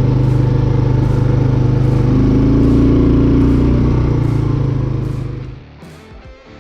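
Single-cylinder four-stroke engine of a 1987 Honda TRX 250 ATV running steadily, growing a little louder around the middle. It falls away about five and a half seconds in.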